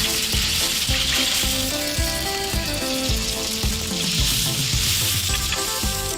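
Cartoon soundtrack: background music with a steady beat under a loud hissing, sizzling noise that swells twice.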